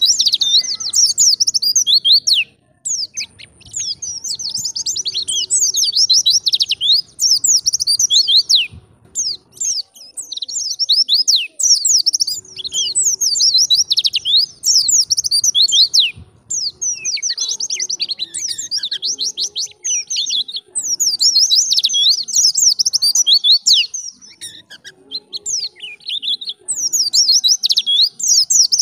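White-eye (pleci) singing a fast, high-pitched twittering song: long runs of rapid chirps and quick slurred notes, broken by brief pauses a few times.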